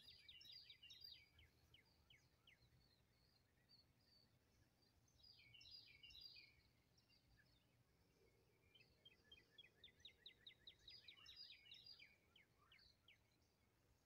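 Faint songbirds chirping in quick trilled runs: three spells of rapid repeated notes, near the start, around the middle and again later, over a faint low background rumble.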